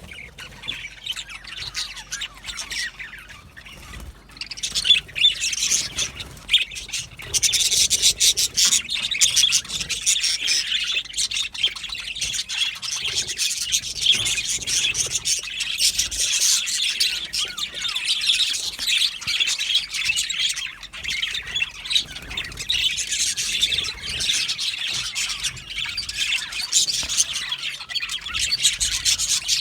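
A colony of budgerigars chattering and chirping together. The chatter is sparse at first, then about five seconds in becomes a dense, continuous warble.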